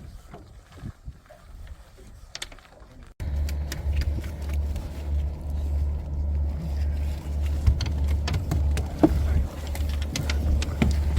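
Scattered light knocks and clicks for about three seconds, then a boat motor comes in suddenly and runs steadily with a low drone, with knocks and clatter over it.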